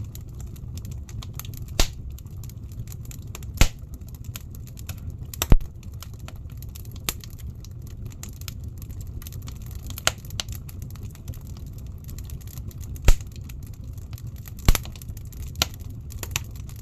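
Wood fire burning in a fireplace: a steady low rumble of the flames with irregular sharp crackles and pops from the burning logs, a few of them loud.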